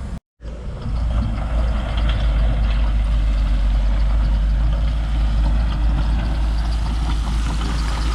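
Heavy diesel engine of earthmoving equipment running steadily, a deep low rumble after a brief break in the sound just after the start.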